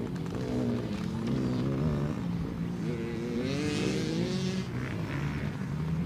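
Dirt bike engine running and revving, its pitch rising and falling, with a climb in revs about three seconds in.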